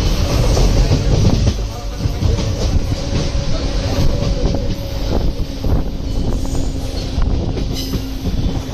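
Express train coaches running at speed: a steady heavy rumble of wheels on the rails with scattered clicks over rail joints, heard from the open coach doorway.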